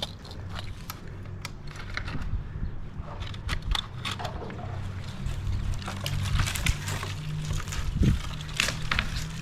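An engine idling steadily in the background, with scattered crackles and snaps like twigs and leaves being broken and handled, and a heavier knock near the end.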